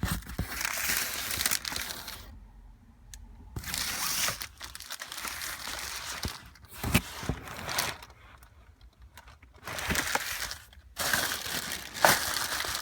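Plastic packaging crinkling in several bursts as it is handled, with sharp clicks in between.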